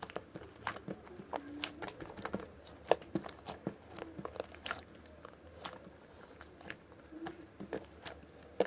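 Slime being squished, pressed and stretched by hand, giving irregular sticky clicks and small pops, several a second.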